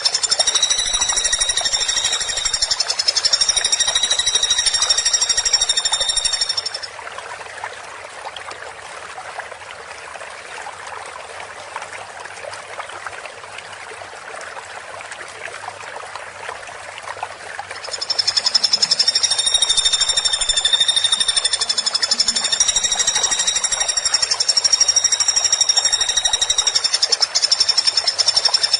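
Woodpecker giving a long, fast rattling call of high, ringing notes. It stops about seven seconds in, leaving only a steady hiss, and starts again about eleven seconds later.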